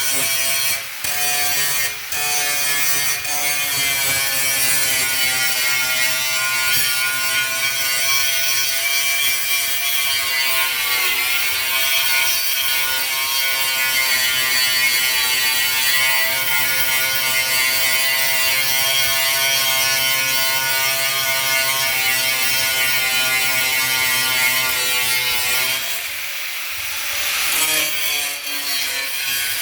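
A handheld electric power tool runs steadily with a whining motor as it works a surface. Its pitch sags briefly about eleven seconds in, and near the end it gives way to a rough scraping hiss for a second or two before the whine returns.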